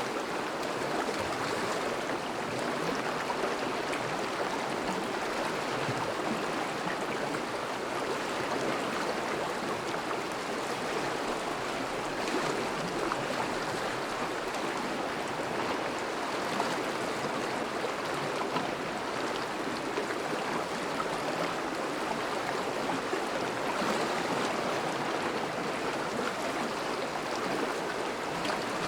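Thawing river flowing steadily over and around ice, a continuous rushing and burbling of moving water.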